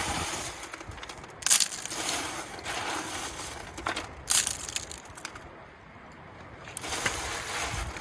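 Creek gravel rattling and grinding across the screen of a homemade sifter table as it is worked. It comes in several surges, with a quieter spell just past the middle.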